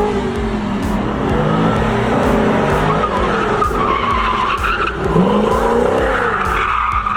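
Car engine revving up and down with tyres squealing and skidding, with a high squeal at about four seconds in and again near the end.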